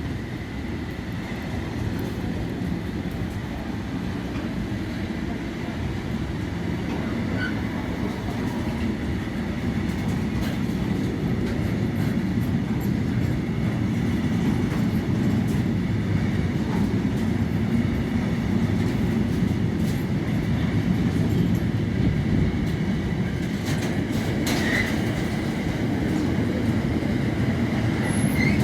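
A train running along the track: a steady low rumble that slowly grows louder, with a few faint clicks from the wheels on the rails near the end.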